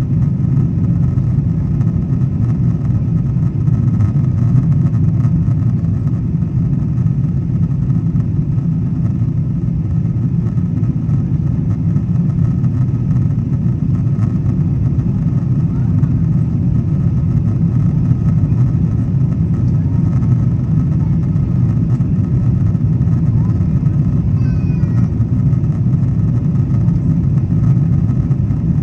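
Steady, loud low rumble of a Boeing 777-200ER's engines and airflow heard inside the economy cabin during the climb after takeoff.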